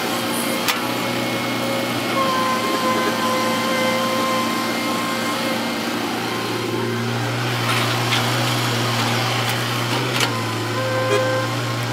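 Heavy diesel earthmoving machinery running with a steady low hum. A higher whine comes in about two seconds in and fades out a few seconds later, and a few sharp knocks sound near the start and towards the end.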